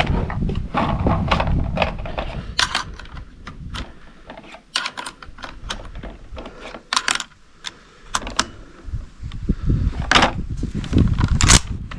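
8mm Mauser cartridges and the rifle's metal parts clicking and clinking as rounds are handled and loaded, a string of separate sharp metallic clicks.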